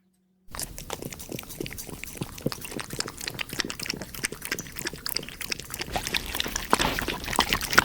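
Close-miked wet eating sounds: a dense run of smacking, squishing mouth clicks that starts about half a second in and grows a little louder near the end.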